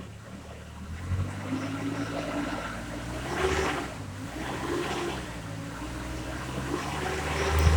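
Nissan Navara D40's 2.5-litre four-cylinder turbo diesel running, its note swelling and easing a few times.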